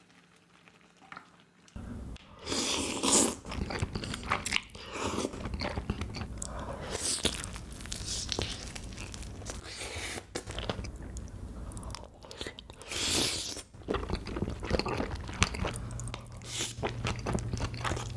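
Close-miked chewing and biting of soft food in a spicy sauce, sausages and fish cake, starting about two seconds in and going on in an irregular run of wet bites and chews.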